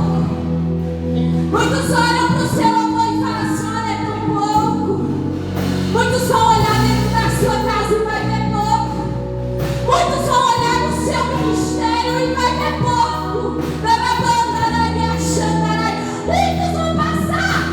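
Worship music: a woman singing a sustained, slow melody over held keyboard and bass chords.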